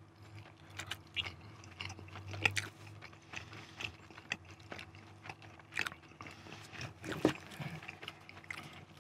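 A person chewing momo dumplings close to the microphone: soft, scattered mouth clicks and smacks over a faint low hum.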